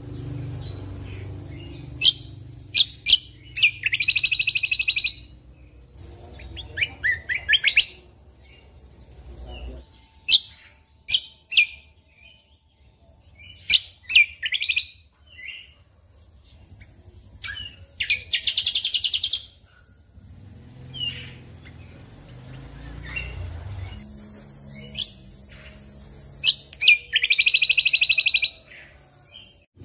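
Cucak kombo (kecial kombok) singing in loud, energetic phrases: sharp whistled notes and several short, very fast trills, with pauses between phrases. A low rumble runs underneath.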